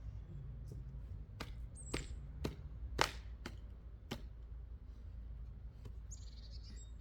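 Wood being chopped: six sharp knocks of a blade striking wood, about half a second apart, the loudest about three seconds in. A bird gives a short chirp among the strikes and a high trilling call near the end.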